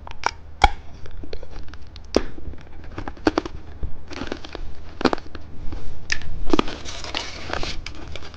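A lollipop wrapper being handled and torn open, with scattered sharp clicks and crackles and two longer stretches of rustling.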